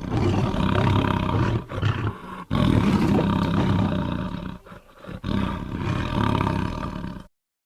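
Tiger roaring three times in a row, each rough, low roar lasting about two seconds, then cutting off abruptly into silence near the end.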